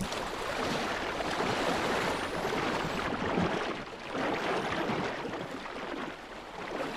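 Rushing, swelling water noise of ocean or underwater ambience, easing off twice, with a few faint high rising whistles.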